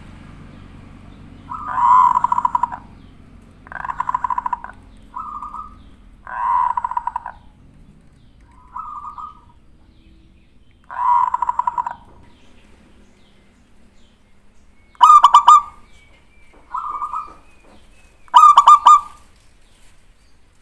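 Zebra dove (perkutut) cooing: a string of short trilled cooing phrases about every one to two seconds, the two near the end louder and sharper.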